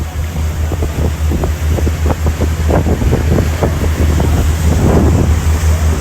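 Motorboat under way: a steady low engine rumble with wind buffeting the microphone and water splashing irregularly against the hull, the splashing heaviest around four to five seconds in.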